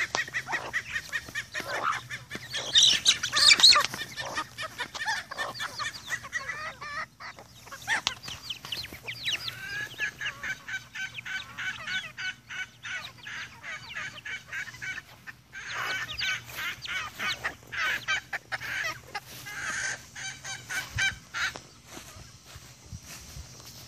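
Free-ranging chickens clucking and calling, with many short clicks and taps among the calls. The loudest calls come about three to four seconds in.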